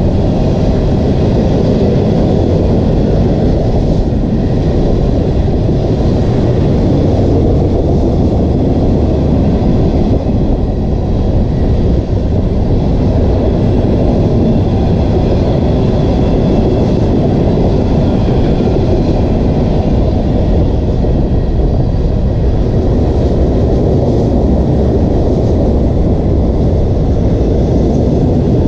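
Mixed freight train rolling past: a loud, steady rumble of cars and wheels on the rails.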